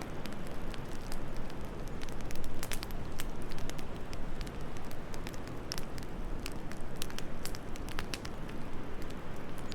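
Wood fire crackling in a fireplace: irregular sharp pops and snaps scattered throughout, over a steady low rush of wind.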